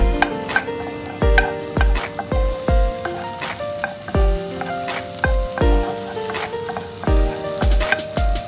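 Background music with a regular kick-drum beat and held notes, over chopped onion, tomato and garlic sizzling in oil in a pan as a wooden spoon stirs them.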